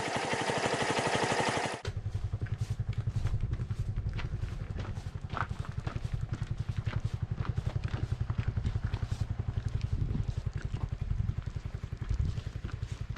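Restored Yeh Wolf motorcycle's engine running: loud and full for about the first two seconds, then dropping to a steady, rapid low put-put with light clicks on top.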